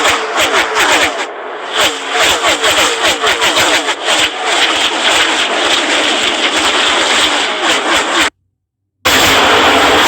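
Race car engines revving, several at once, their pitch sweeping up and down as the cars accelerate and pass. Near the end the sound cuts out completely for under a second, then comes back as a denser, steadier engine noise.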